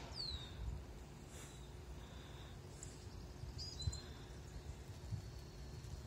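Small birds calling faintly: a whistled note that swoops down just after the start, then a few short high chirps about two-thirds of the way through, over a steady low outdoor rumble.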